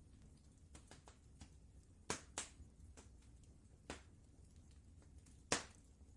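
Wood fire crackling: scattered sharp pops at irregular intervals, the loudest a little past five seconds in, over a faint low rumble.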